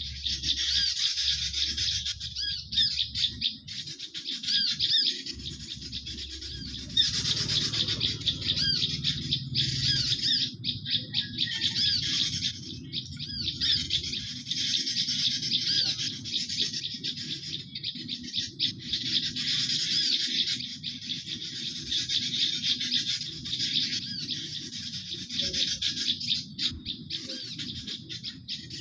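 Dense, continuous high-pitched chirping and twittering of small garden birds, many rapid calls overlapping: a bird-luring call (suara pikat) used to draw birds into a trap.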